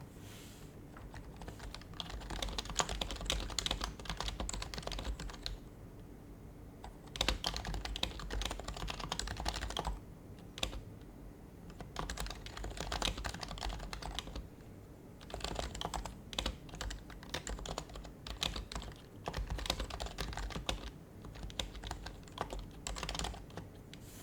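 Typing on an HHKB Professional HYBRID Type-S keyboard with silenced Topre switches. It comes in runs of quick keystrokes a few seconds long, broken by short pauses.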